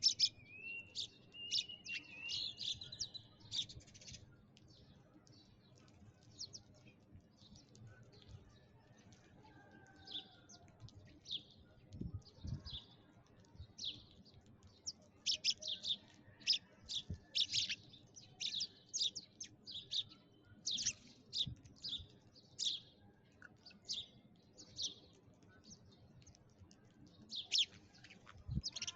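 Sparrows chirping: many short, sharp high chirps in irregular bouts, thickest around the middle, with a short rising note near the start.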